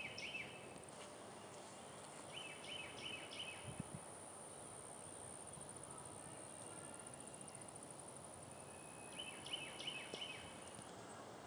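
Faint outdoor ambience: a songbird sings a short phrase of several quick notes three times, over a thin, steady high-pitched insect buzz that stops near the end.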